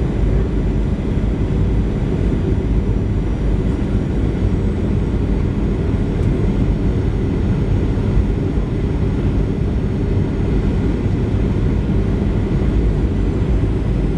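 Boeing 737-700 cabin noise heard from a window seat: a loud, even rush of airflow with the drone of its CFM56-7B engines, strongest in the low end and unchanging throughout.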